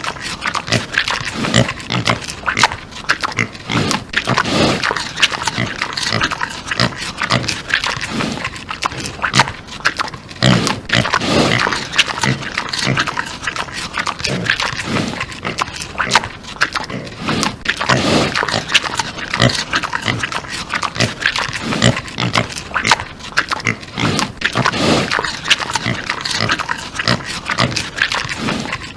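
Domestic animals calling in a dense stream of short, overlapping calls.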